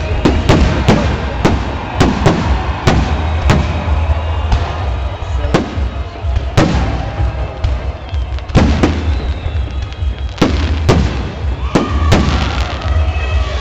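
Fireworks shells bursting overhead in an irregular barrage: about fifteen sharp bangs, some in quick pairs, over a steady low rumble.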